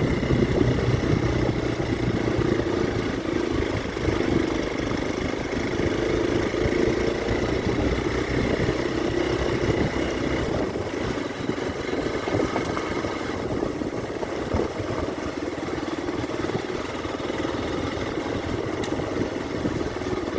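Motorcycle engine running while riding along at a steady pace; its low rumble drops away about halfway through.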